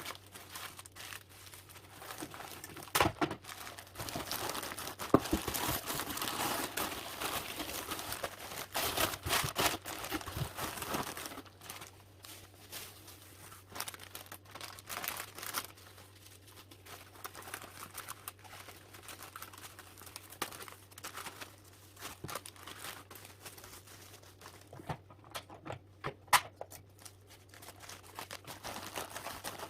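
Packaging material crinkling and rustling as a parcel is packed by hand, densest for the first ten seconds or so, then sparser rustles with a few sharp clicks.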